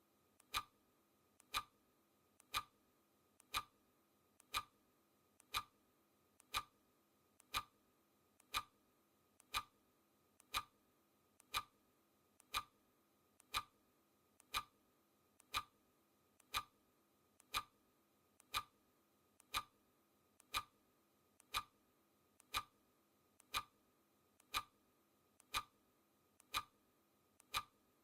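Clock ticking sound effect: one sharp tick every second, evenly paced, each with a fainter click just before it.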